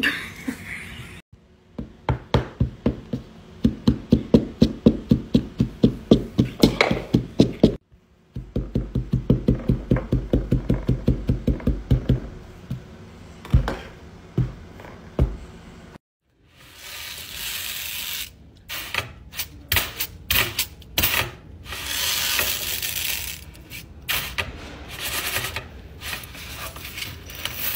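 Fast, even run of soft thuds, about four or five a second, as a plastic mould and a slotted spatula are pressed and tapped into black sand on a countertop. After a sudden cut, a rattling hiss with quick clicks from the many metal pins of a pin art toy sliding.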